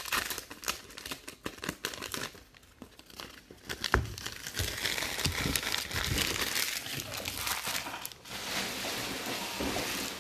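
Card pack wrappers being handled, torn open and crinkled. Scattered crackles come first, then a sharp snap about four seconds in, followed by steady crinkling.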